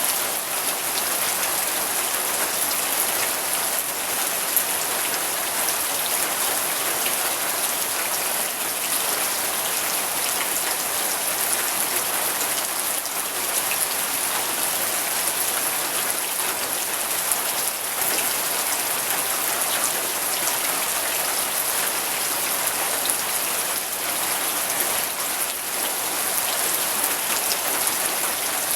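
Steady rain falling on surfaces, a dense even patter of drops with no thunder.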